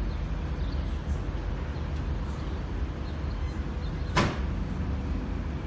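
Steady low rumble of vehicle noise, with a single sharp knock about four seconds in.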